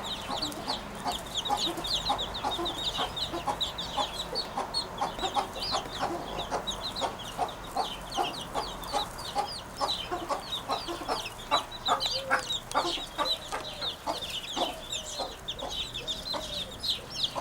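Dense, continuous chatter of many birds: quick high chirps overlaid with short clucking notes, without a break.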